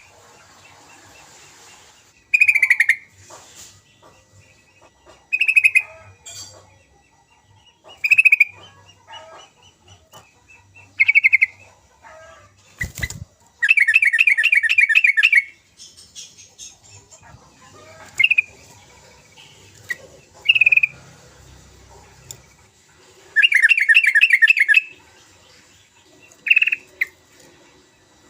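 Yellow-vented bulbul singing: short bubbling phrases every few seconds, with two longer fast chattering runs. A single knock comes just before the first long run.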